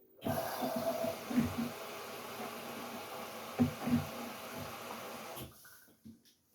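LG Direct Drive 8.5 kg front-loading washing machine, water rushing into the drum, with a few low thuds from the load. It starts suddenly and cuts off suddenly after about five seconds, as the inlet valve opens and shuts during the fill at the start of the cycle.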